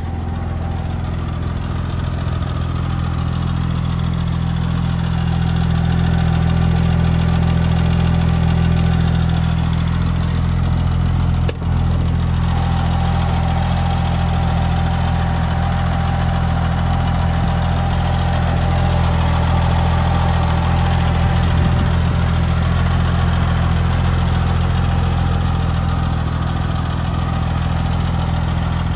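A 2001 Porsche 911 Turbo's twin-turbo 3.6-litre flat-six idling steadily and warm, heard at the open engine lid.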